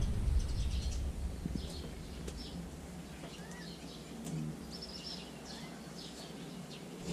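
Faint bird chirps: short, high calls scattered throughout, over a low rumble that fades out a few seconds in.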